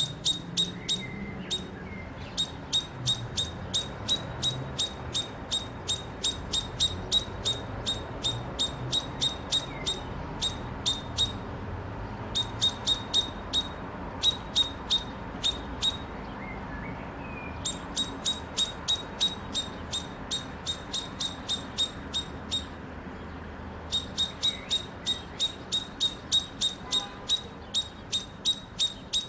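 A rapid series of sharp ticks, about four a second, in runs of several seconds with short breaks, is the loudest sound. Under it come a few faint, short fluted phrases of a male Eurasian blackbird's song, over a steady low background hum.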